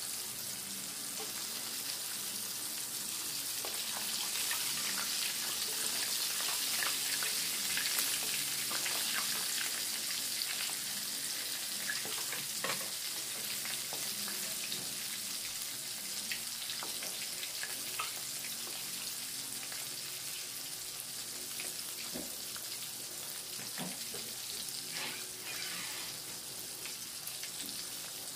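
Breaded chicken cordon bleu rolls frying in oil in a skillet over low heat: a steady sizzle with many small crackles and pops.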